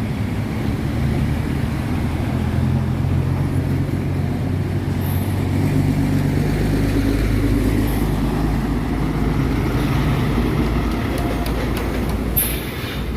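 Heavy truck diesel engine running steadily close by amid road traffic, its pitch shifting a few seconds in, with a short hiss near the end.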